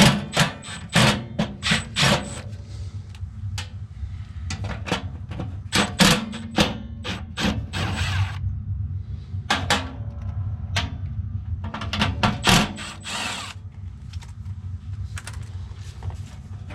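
Metal clicks and knocks of tools working on an HVAC blower motor and its loose mount, with two short runs of a power drill about halfway through and again near the end, over a steady low hum.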